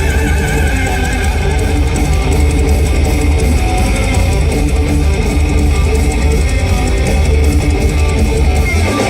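Heavy metal played loud: distorted electric guitars over drums and bass.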